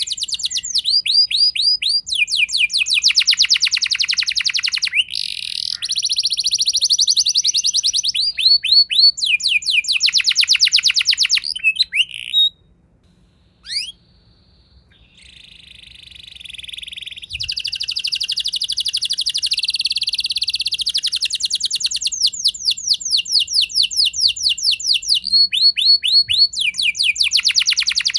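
Domestic canary singing a rolling song: long, fast trills of rapidly repeated notes alternating with buzzy sustained phrases. There is a pause of about two seconds near the middle, and the song swells back in after it.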